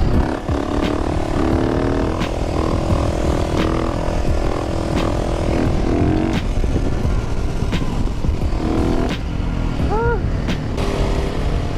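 Motorcycle engine running under way with wind rush on the helmet microphone. The engine note shifts up and down, and about ten seconds in there is a short rev that rises and falls.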